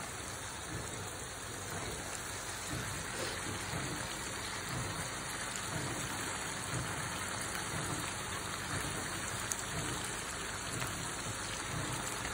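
Sliced tomatoes, chilies and shallots sizzling in oil in a wok: a steady frying hiss.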